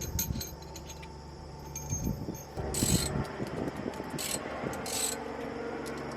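Socket ratchet clicking in short runs, with light clinks of metal tools, as a starter bolt is worked loose from under the truck.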